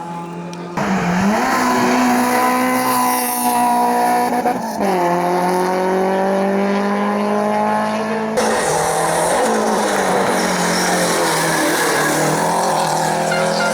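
Hillclimb race car engines accelerating hard. The engine note climbs steadily through each gear and drops sharply at each upshift, about one second in and again near five seconds. The sound changes abruptly twice as the footage cuts between cars.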